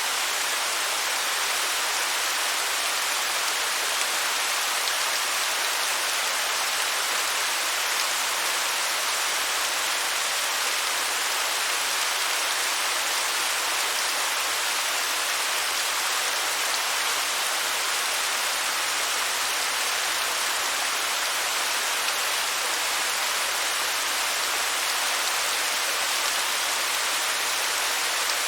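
Waterfall: a steady, even hiss of falling water, unbroken and without pauses, mostly high in pitch with little deep rumble.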